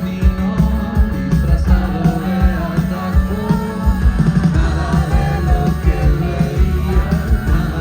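Rock song with singing over a steady drum beat, bass and guitar.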